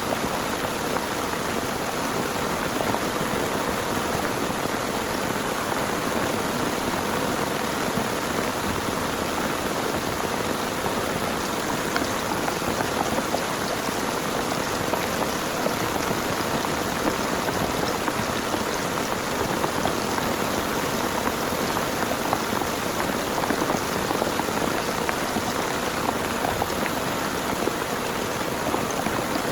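Heavy rain falling steadily, with many separate drops ticking sharply on nearby surfaces.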